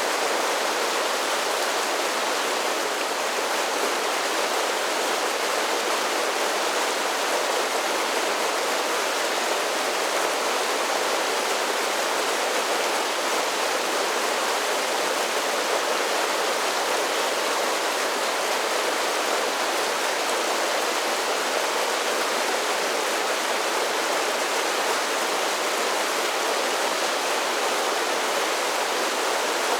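Mountain creek running over a series of small waterfalls, a steady rushing of falling water with no change in level.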